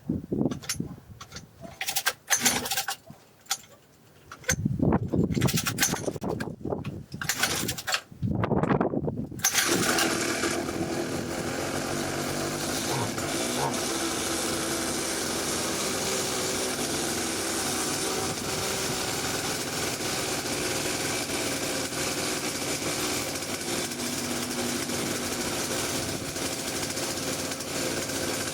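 49cc two-stroke mini pit bike engine being pull-started: several short bursts as it is pulled over and sputters, then about ten seconds in it catches and runs steadily. It is quite a loud bike, running a little too rich.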